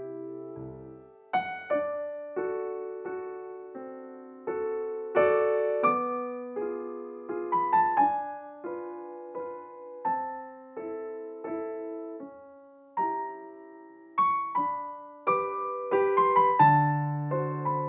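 Background piano music: a gentle melody of single struck notes over held chords, each note ringing and fading.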